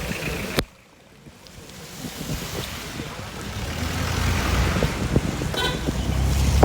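Vehicle driving in the rain: steady road and rain noise cut off by a sharp click just over half a second in, then fading back up as a low rumble grows louder. A brief high tone sounds near the end.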